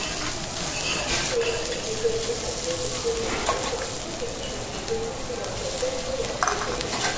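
Sliced onions and cabbage sizzling steadily on a hot teppanyaki griddle, with a few sharp clicks of steel spatulas against the plate. A wavering hum runs underneath.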